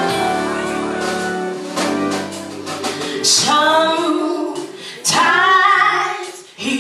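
Gospel song: a woman singing long, bending held notes over a band with sustained low keyboard or bass tones.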